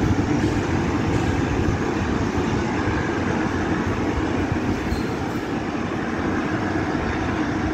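Diesel-hauled passenger train pulling out of the station, its GEA-class diesel-electric locomotive and wheels running steadily and slowly fading as it moves away.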